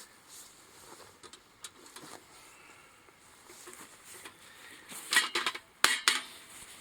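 Faint rustling and light ticks, then a quick run of sharp clicks and knocks about five seconds in.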